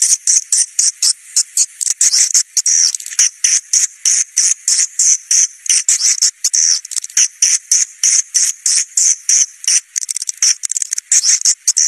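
Swiftlets twittering in a dense flock: a rapid, unbroken stream of short high-pitched chirps, several a second. This is a swiftlet caller recording, the kind played to lure swiftlets to a nest house.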